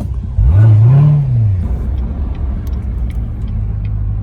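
Car engine idling, revved once about half a second in: the pitch climbs and drops back to idle within about a second.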